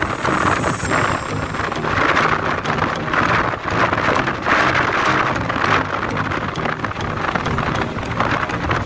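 Passenger train running at speed: a steady rushing noise of wheels, track and wind that swells and eases every second or so.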